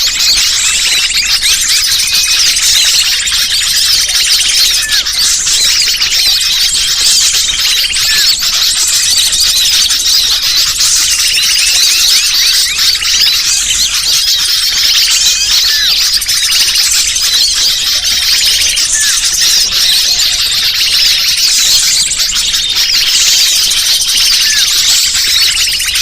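Bird-lure recording: a dense, unbroken chorus of many small birds chirping and twittering at high pitch, loud and steady.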